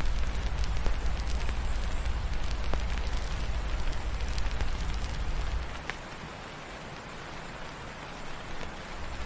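Steady rain falling, with sparse small crackles of a wood fire. A low rumble underneath drops away about six seconds in and comes back near the end.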